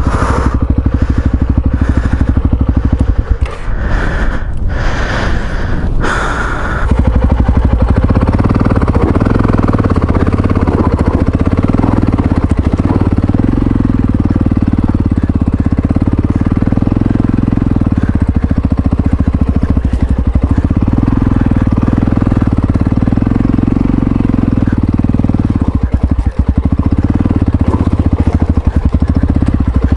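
Yamaha Ténéré XT660Z single-cylinder engine running steadily under way. Over the first several seconds a rough, gritty noise rides over the engine, then the engine alone carries on.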